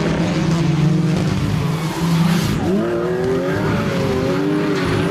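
Audi Quattro S1 rally car engine running under load at a steady note. About two and a half seconds in, the pitch drops briefly, then climbs again with a wavering note as the car accelerates.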